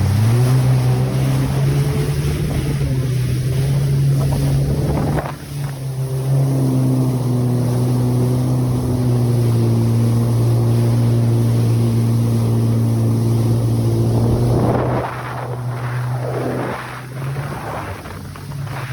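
Jet ski engine running at a steady pitch on the water, dipping briefly about five seconds in and dropping in level near the end.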